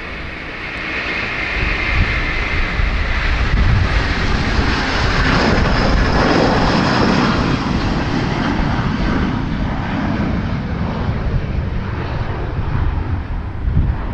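Airbus A330 airliner's twin jet engines at takeoff power: a roar with a whine on top that swells over the first few seconds, peaks, then eases slightly as the jet passes. Gusty wind rumbles on the microphone underneath.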